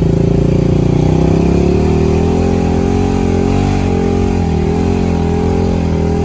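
Off-road vehicle engine running under throttle at fairly steady revs, its pitch wavering slightly up and down, with no break in the sound.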